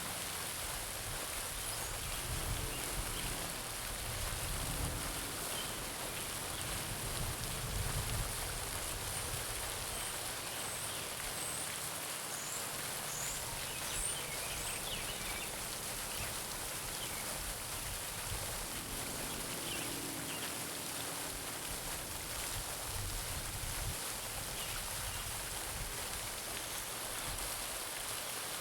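Garden pond fountain splashing steadily into the pond, with a few faint bird chirps about halfway through.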